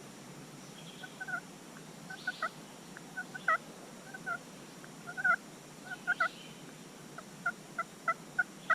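Turkey yelps and clucks: short two-tone notes in pairs and triplets, turning into an evenly spaced run of yelps, about three a second, near the end.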